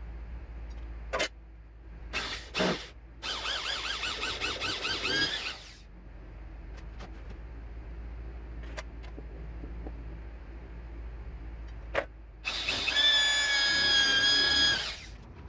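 Cordless drill driving screws, two runs of its high motor whine: the first wavering in pitch as the screw loads the motor, the second steadier and louder near the end, with a few clicks of handling between.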